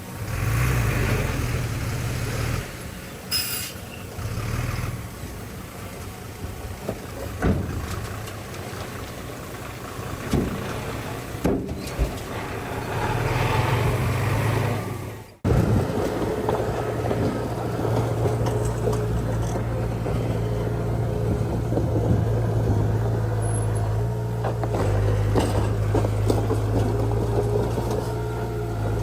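Diesel engine of heavy earthmoving machinery working, its note rising and falling with load, with a few knocks. There is an abrupt break about halfway through, after which the engine runs more steadily.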